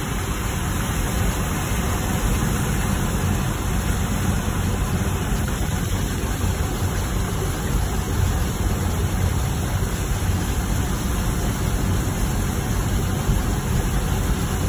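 Steady low rumble and hiss of a car driving, with no breaks or sudden sounds.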